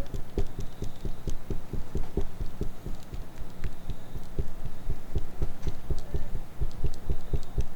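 Rhythmic low puffs of air, about four a second, typical of fanning a charcoal-briquette fire to get it going, with faint crackles on top.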